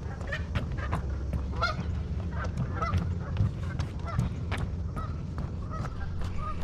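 A flock of geese honking, a string of short calls about two a second.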